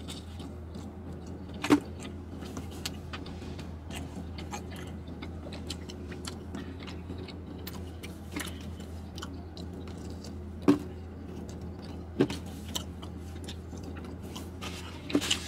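A person chewing a mouthful of thin-crust pizza, with small wet mouth clicks and a few sharper smacks, the loudest about two seconds in and again around eleven and twelve seconds. A steady low hum runs underneath.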